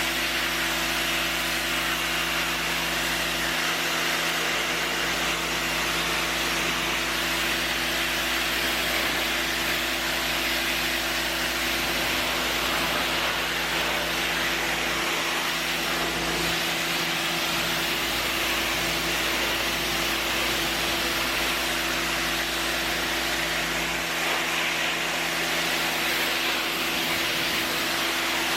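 Stanley electric pressure washer running steadily: its motor and pump hum under the continuous hiss of the high-pressure water jet spraying.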